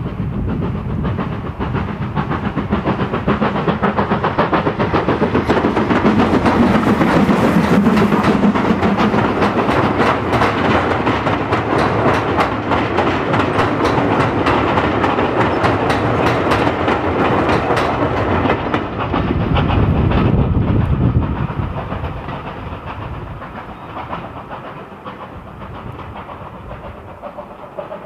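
A steam-hauled passenger train passing over a railway bridge. Its sound builds as it comes closer, the coach wheels clatter over the rail joints for about ten seconds, and it fades away over the last several seconds.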